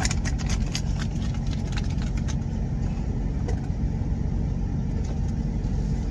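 Truck engine idling steadily, a constant low rumble heard inside the cab. A quick run of light clicks and taps in the first two seconds.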